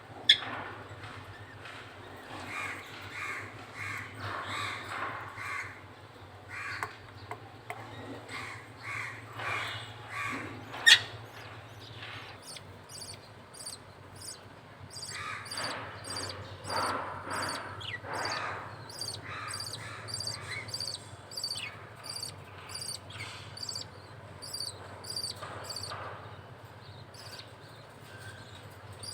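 A budgerigar chick making raspy begging calls in short repeated series while the male budgie feeds it. Two sharp clicks stand out, one at the very start and one about eleven seconds in. Through the second half a fast, even, high-pitched chirping runs underneath.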